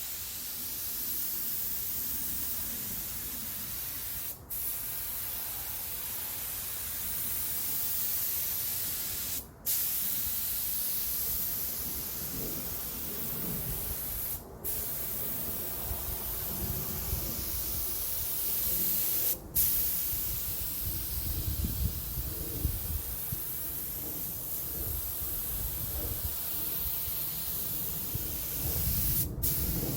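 Air-powered Harbor Freight paint gun spraying base coat, a steady loud hiss with a few brief breaks between passes.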